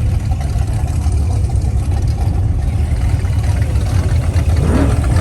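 A car engine running with a deep, steady low rumble as cars arrive at a car show, its note rising near the end.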